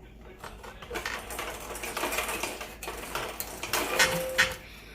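A plastic knife cutting celery: rapid, uneven tapping and clicking strokes that grow busier after about a second.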